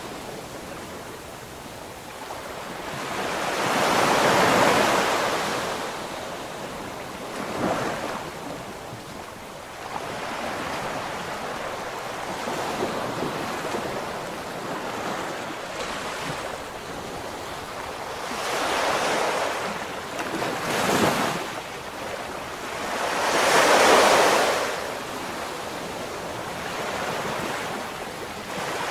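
Ocean waves breaking and washing in, surging louder several times over a steady hiss of surf, with some wind buffeting the microphone.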